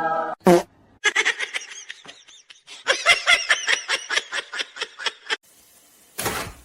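High-pitched giggling laughter in quick pulses, several a second, for about four seconds, after a short falling squeak. A brief noisy burst comes near the end.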